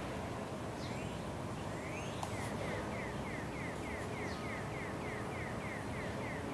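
A bird repeating a quick series of short chirps, about three a second, starting a couple of seconds in, over a steady low outdoor rumble.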